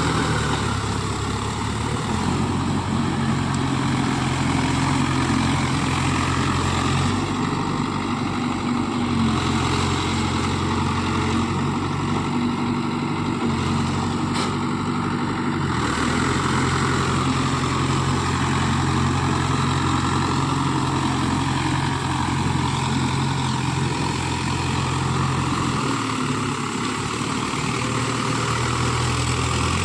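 Diesel engine of a Mahindra Yuvo Tech Plus 575 DI tractor running steadily under work, its note stepping up and down a few times as the load or throttle changes.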